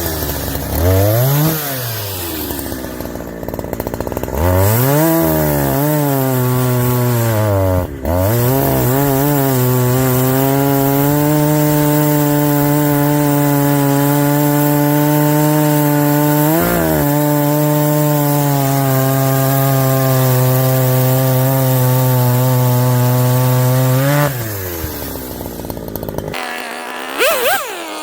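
Two-stroke chainsaw revving up and down twice, then held at high revs under load, cutting steadily through wood for about fifteen seconds with one brief dip. It then drops back toward idle. Near the end a different, higher-pitched whining sound comes in.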